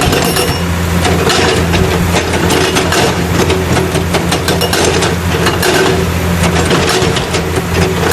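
Electronic engine sound effect of a toy stone-crusher truck: a steady, loud machine rumble with a rapid clatter.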